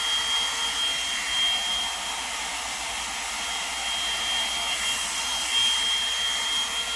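Revlon One-Step Volumizer hot-air brush dryer running steadily: an even rush of blown air with a thin, steady high whine from its motor, a sound that is like a jet.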